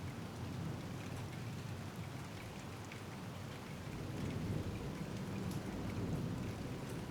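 Steady rain falling, with scattered individual drops ticking. A low rumble of distant thunder swells in the second half.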